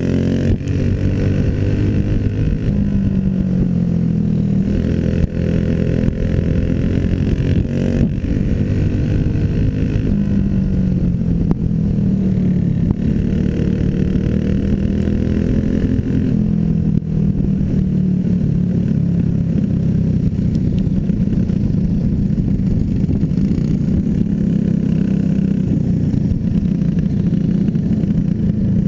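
Small racing engines running hard through a heat race, their pitch rising on the throttle and dropping off again every few seconds as the machines go round the track.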